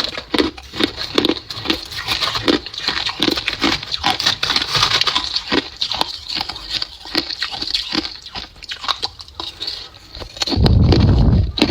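Ice being chewed close to the microphone: a steady run of crunches, a little over two a second, with a loud low rumble near the end.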